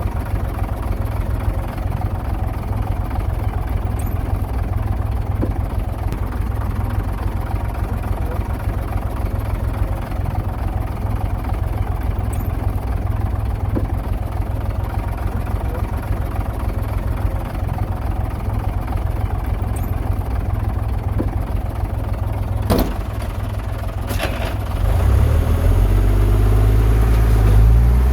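Heavy diesel engine of earthmoving machinery running steadily with a low rumble. A sharp clank comes about 23 seconds in and a fainter one a second later. Then the engine revs up, rising in pitch and getting louder near the end.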